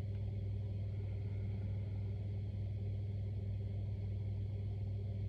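A steady low hum with no other events: an even background drone with no breaths, knocks or voice.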